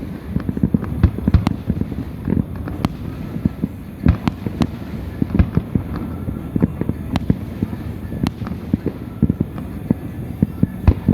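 Fireworks going off: a dense, irregular stream of bangs and crackling pops, several a second, with a few sharper louder reports among them.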